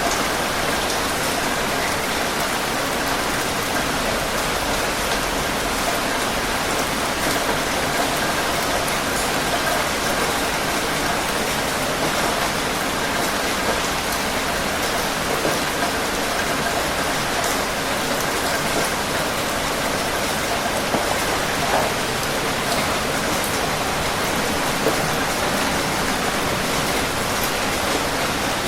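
Steady heavy rain falling, an even dense hiss with a few faint drop taps now and then.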